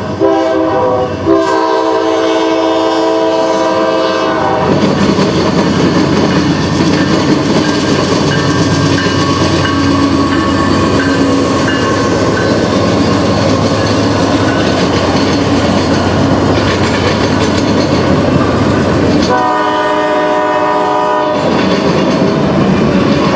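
Locomotive air horn sounding a long blast and a second shorter one, then a train running past with wheels clacking over the track, and the horn blowing again for about two seconds near the end.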